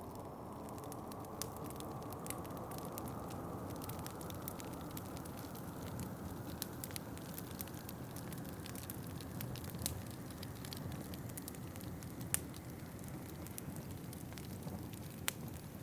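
Wood fire crackling, with scattered sharp clicks and a few louder pops, over a steady low rush of wind.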